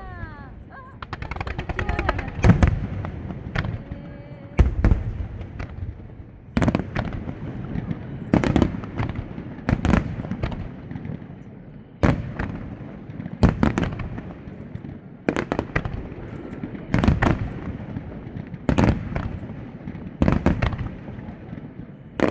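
Aerial fireworks bursting at close range: sharp booms every second or two, with crackling shells between them.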